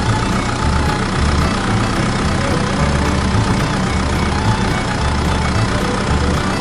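An engine running steadily at idle with a low, uneven throb.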